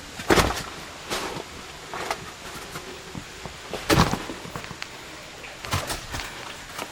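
Footsteps of a hiker on a wet, rocky trail: irregular heavy thuds and scuffs, one every second or two.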